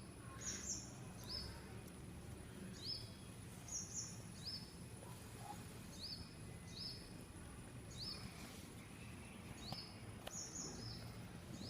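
A small bird chirping over and over, short high notes that sweep upward, about one or two a second and sometimes in quick pairs, over a low steady background hum.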